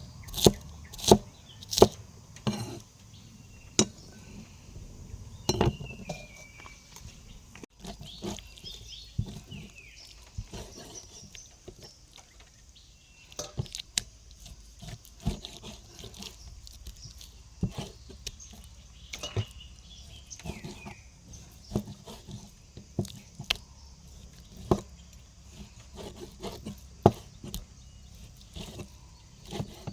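Kitchen utensils and dishes knocking and clinking at irregular intervals during food preparation, with a few short high chirps in the background.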